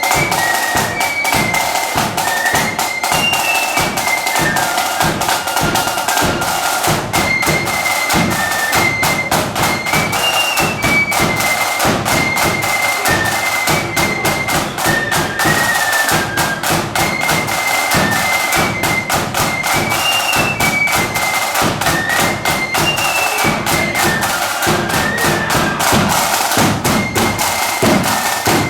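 Marching flute band playing a tune, the flutes carrying a high melody in unison over fast, continuous snare drumming and bass drum beats.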